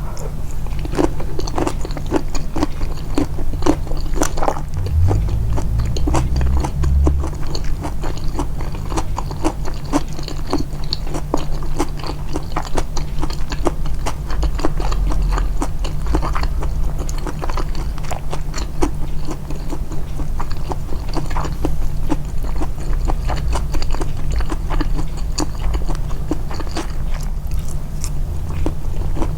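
Close-miked, amplified chewing: a person's mouth working through food with many quick, wet, irregular clicks, over a steady low hum.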